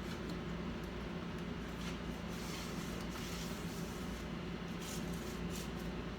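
Steady low electrical hum with faint scattered clicks and brief light scraping or rustling noises.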